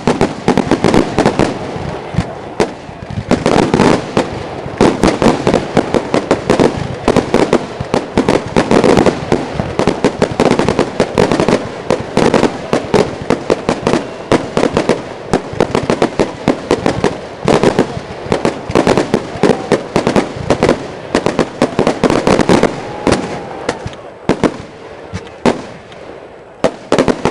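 Aerial fireworks in a dense, continuous barrage: many sharp bursts and crackles a second, overlapping one another. The barrage thins out over the last few seconds.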